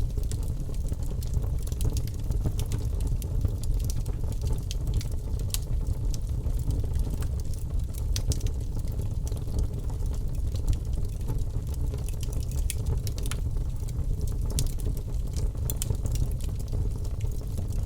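Wood logs burning in a fireplace: a steady low rumble of flame with frequent small crackles and pops scattered throughout.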